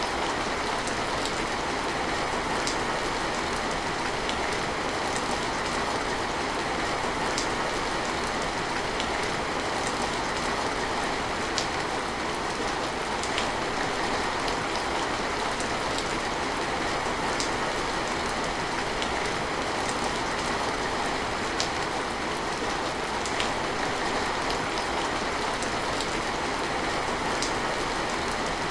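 Steady rain falling, an even hiss with scattered sharp ticks of single drops striking nearby surfaces.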